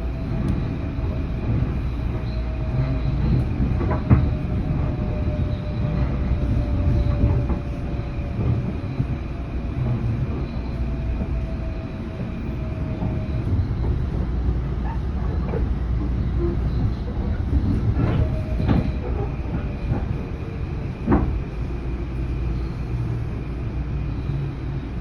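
A Metro-North Railroad train running on the rails: a steady rumble with a faint held whine and a few sharp clicks. The loudest click comes about four seconds in, and more come near the end.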